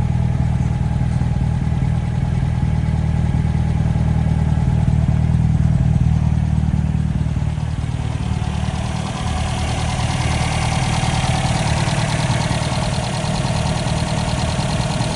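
1955 MG TF 1500's 1466 cc four-cylinder engine idling steadily, partly warmed, at about 50 °C water temperature. The sound turns brighter, with more hiss and rattle in the upper range, about halfway through. It is an even idle with no odd noises, which the owner takes to mean the engine runs well.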